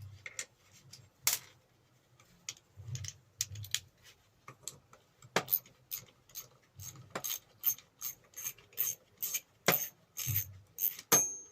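Metallic clicking of a spanner working small nuts off a bench grinder. The clicks are scattered at first, then come at a steady rhythm of about two a second from about halfway through.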